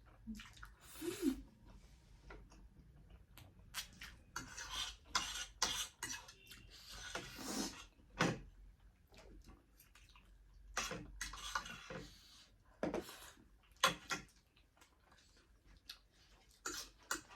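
Cutlery clinking and scraping against plates and bowls during a meal of noodles and momos, in irregular short bursts, with brief noisy slurping and chewing sounds between them.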